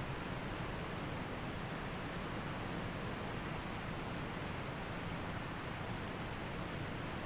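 Waterfall water rushing in a steady, even roar with no change in level.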